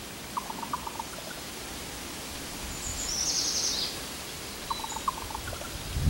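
Birds calling over a steady background hiss. A songbird gives a loud, high, fast trill about three seconds in. Two short runs of lower, quick clicking notes come near the start and again about five seconds in.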